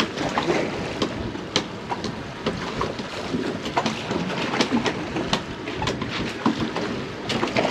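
Wind and water noise aboard a small open boat, with scattered sharp clicks and knocks from handling gear on deck.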